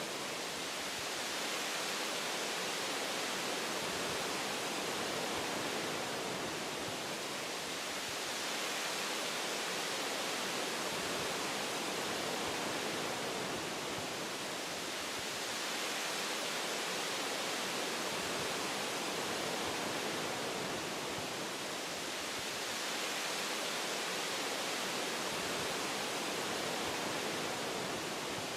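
Wind blowing through forest tree branches: an even rushing hiss that swells and eases slowly, about every seven seconds.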